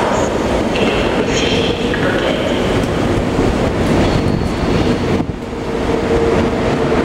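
ICE high-speed train passing close along the platform: a loud, steady rush and rumble of wheels on rails, with a few brief high squeals in the first two seconds. After a short dip about five seconds in, a steady low hum comes in.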